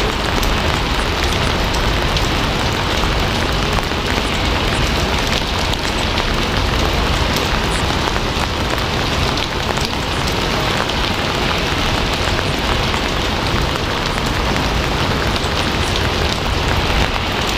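Steady rain falling: an even, unbroken hiss of rain with many small drop ticks through it.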